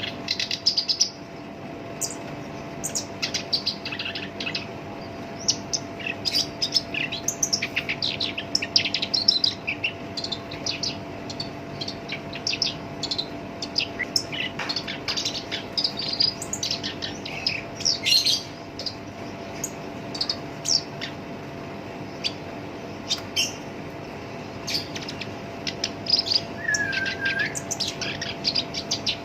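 Black-browed reed warbler singing continuously: a rapid, harsh, scratchy chattering song of quick varied notes, with a short slurred whistle near the end.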